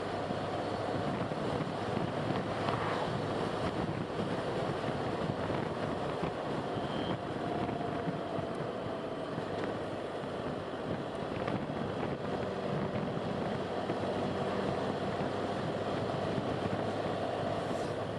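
Car driving along a road: a steady mix of engine and tyre noise with a faint hum.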